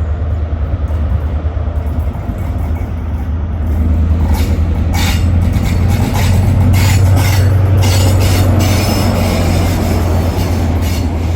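HST diesel power car engine running with a steady low drone as the train moves past. From about four seconds in the sound grows louder, with wheels clicking over rail joints, and it is loudest around seven seconds in.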